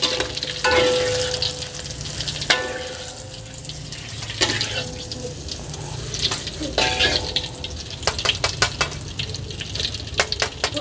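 Chillies and shallots sizzling in hot oil in a metal wok, with a spatula and a perforated wok strainer scraping and knocking against the pan. Several of the knocks ring with a metallic tone, and a quick run of clinks comes near the end.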